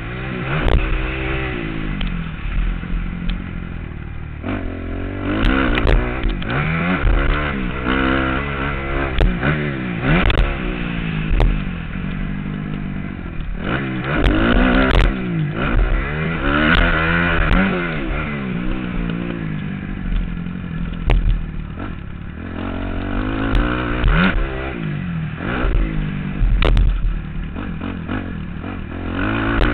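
Motocross bike engine revving up and dropping off again and again as the throttle is worked and gears change, heard from a helmet-mounted camera. Sharp knocks and clatter come in among the engine sound.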